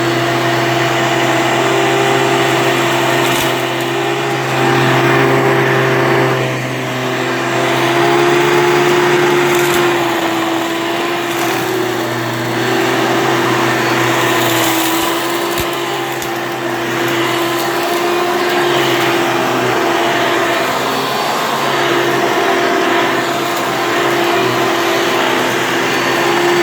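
Hoover Elite vacuum cleaner running continuously, a steady motor hum over a rushing airflow. The hum swells and dips a little as the cleaner is worked, its pitch sagging briefly a few times.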